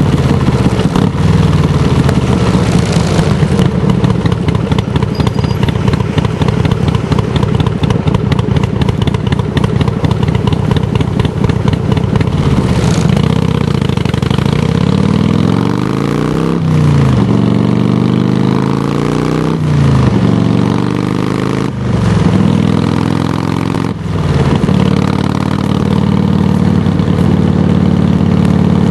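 Harley-Davidson touring bike's V-twin engine through Samson Silver Bullet mufflers, idling steadily, then revved about four times in the second half, each rev climbing and dropping back to idle.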